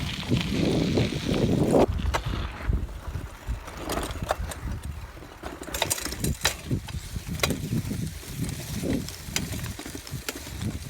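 Mountain bike being ridden over a dirt track: a rumbling wind buffet on the microphone, with frequent sharp rattles and clicks from the bike.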